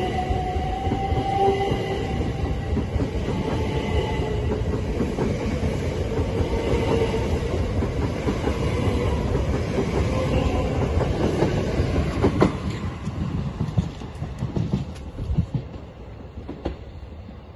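Passenger train running along the platform at close range: a steady rumble of wheels on rail with a whining tone over it, and a sharp knock about twelve seconds in. The noise fades over the last few seconds.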